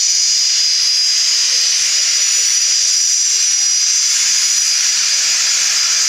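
Alpha Jet turbofan engines running with a loud, steady high-pitched whine over a hiss.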